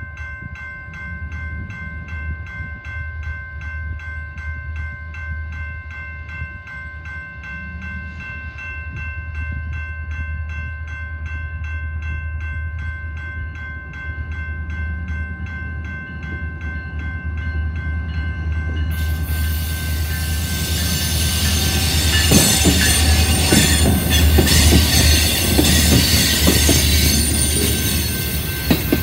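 A diesel locomotive approaches with a low engine rumble that grows steadily louder, under a bell ringing about three strokes a second. About two-thirds of the way in, the freight cars reach the camera and loud wheel-on-rail noise with squealing takes over.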